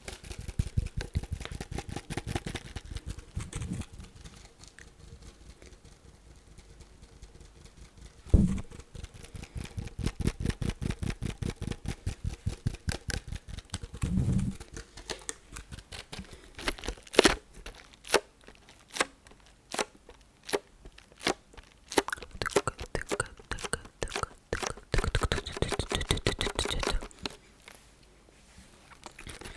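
Fast fingertip tapping on a small hard object, in quick runs of many taps a second with a short lull after the first few seconds. This gives way to slower single taps and a brief burst of scratching near the end.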